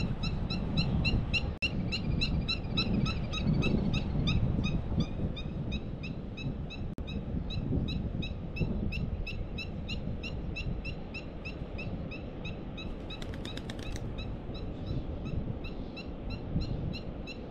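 A small bird calling in a steady, even series of short high chirps, about four a second, over a low rumble of wind on the microphone. Near the end there is a brief flutter.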